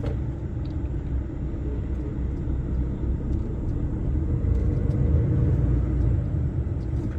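Inside a DAF lorry's cab on the move: a steady low rumble of the diesel engine and road noise, growing slightly louder in the second half.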